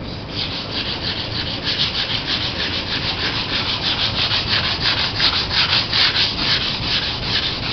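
80-grit wet/dry sandpaper scraping over the painted fiberglass hull of a Laser sailboat in quick, even back-and-forth strokes, several a second, starting just after the opening. It is taking the top layers of paint off to prepare the hull for repainting.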